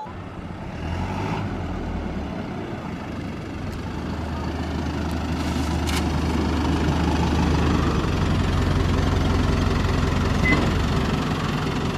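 A vehicle's engine running steadily, growing louder over the first several seconds and then holding, with a brief click about six seconds in.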